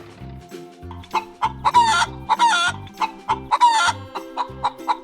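Chickens clucking: four or five short, loud calls that fall in pitch, a few tenths of a second each, over light background music.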